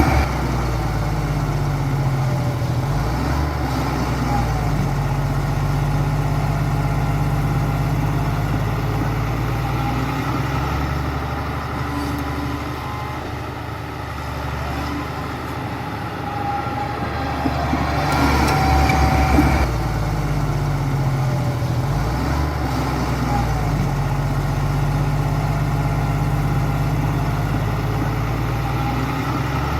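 Heavy diesel earthmoving machine running steadily, its engine note shifting with load. A louder stretch of clanking and rattling comes about two-thirds of the way through.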